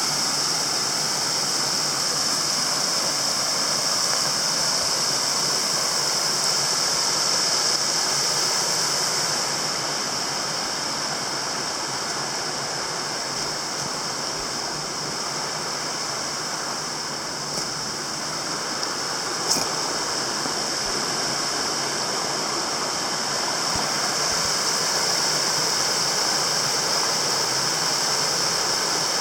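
Running water of a stream, a steady rush with no let-up, with one brief click about twenty seconds in.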